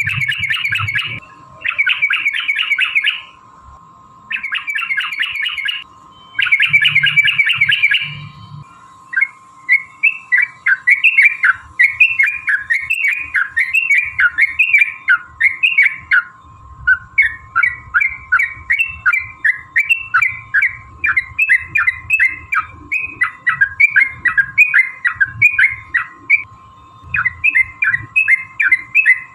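Yellow-vented bulbuls (trucukan) singing. First come four bursts of harsh chattering, each about a second and a half long with short gaps between. Then, from about nine seconds in, a long rapid run of short bubbly notes that rise and fall, about three a second: the long 'ropel' song of a bird in full voice.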